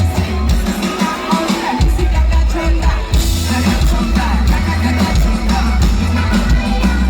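Live rock band music: drum kit, bass and electric guitars playing at full volume, with singing.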